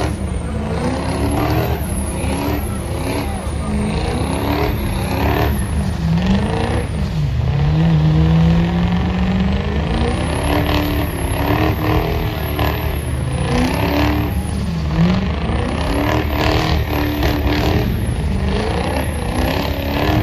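Truck engines revving over and over, the pitch climbing and dropping every second or two, with one longer held rev about eight seconds in.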